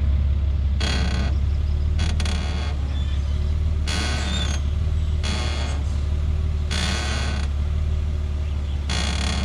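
Lexus GS front suspension squeaking in about six separate short creaks as the steering wheel is turned slowly, over a steady low engine hum. It is the sign of worn front upper control arm bushings.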